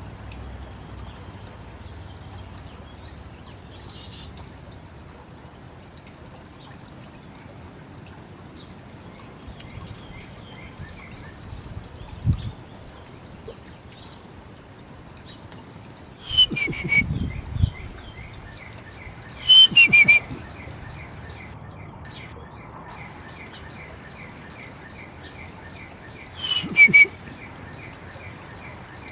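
Birds calling at a backyard feeder: three loud bursts of calls with short falling notes, about halfway through, a few seconds later, and near the end. A fast, evenly repeated high trill runs through the second half over a steady background hiss.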